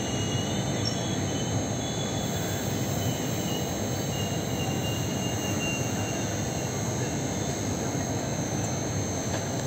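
Passenger express train running into a station: a steady rumble and rattle of the coaches on the rails, with a faint high wheel squeal now and then.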